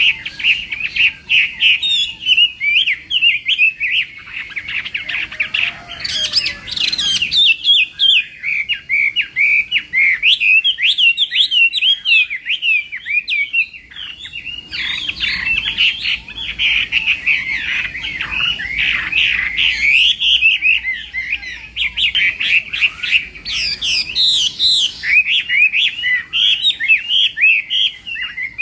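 Chinese hwamei singing a loud, fast, varied song of rapid whistled phrases and warbles, with brief lulls about four and fourteen seconds in and a harsher, higher passage around six seconds in.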